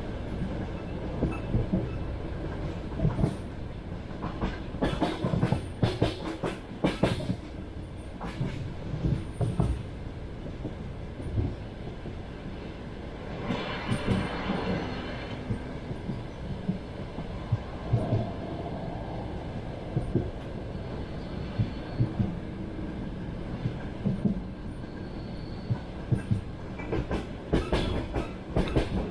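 Passenger train carriage running along the track: a continuous low rumble with wheels knocking over rail joints in irregular clusters. A brief stretch of louder, higher rasping noise comes about halfway through.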